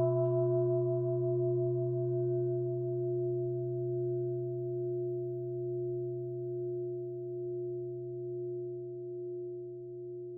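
A meditation bell, struck once just before, ringing out in a few steady tones that waver gently and slowly fade.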